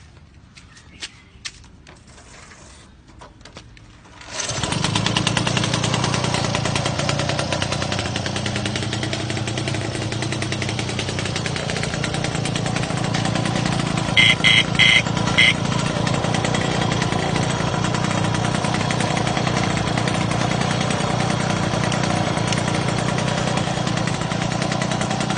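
A Mobylette moped's small two-stroke engine starts about four seconds in, after a few clicks, and then runs steadily. Midway through, four short high-pitched beeps sound over it.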